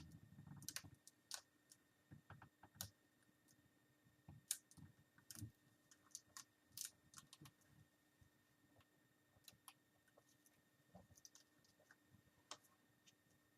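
Faint, irregular small clicks and taps of hands handling a laptop's display cable connector and small plastic parts, with a brief low handling rumble at the start.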